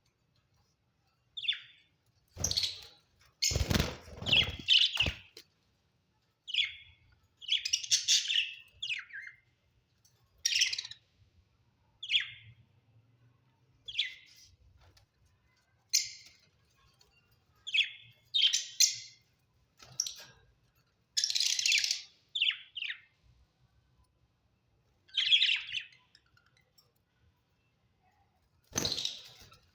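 Budgerigars chirping in short, separate calls, one every second or so, some in quick pairs. A few low thuds come in among the calls about three to five seconds in.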